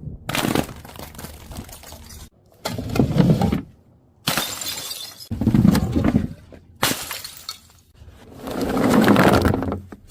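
Glass bottles shattering: about five or six separate breaks one after another, each cutting off abruptly. The last is a longer crash that swells and fades.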